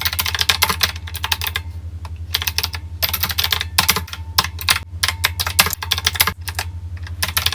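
Typing on a keyboard: quick runs of key clicks with short pauses between them, over a steady low hum.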